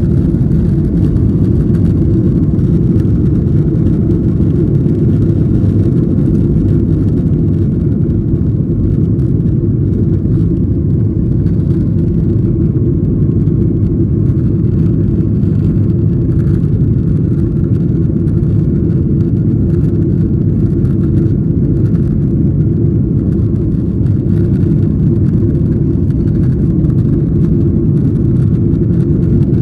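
Steady cabin noise inside a jet airliner in flight: an unchanging low rumble from the engines and airflow.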